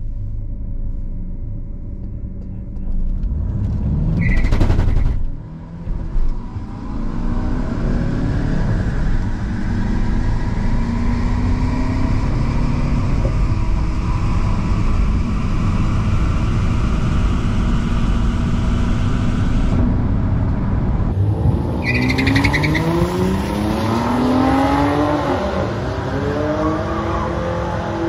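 Turbo-diesel VW Golf Mk6 with a manual gearbox launching off a drag-strip start line, heard from inside the cabin: the engine revs up sharply about four seconds in, dips briefly at the shift, then pulls hard through the gears with its pitch climbing and stepping. About 21 seconds in the sound cuts to trackside, where two cars' engines rise and fall in pitch as they run down the strip.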